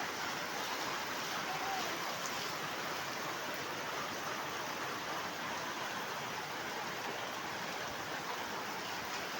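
Heavy rain falling steadily, a continuous even hiss, mixed with running rainwater.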